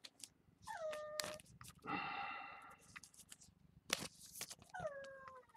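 A dog whining faintly: three high whimpers, two of them sliding down in pitch, with light clicks of cards being handled between them.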